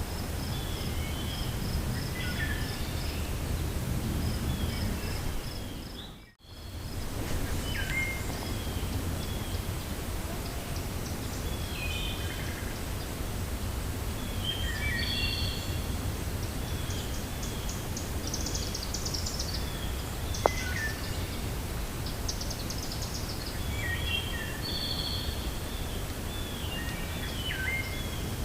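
Wind rumbling with small songbirds chirping repeatedly in short calls. An insect pulses steadily for the first few seconds; the sound then briefly fades out about six seconds in and returns without it. One sharp click near twenty seconds.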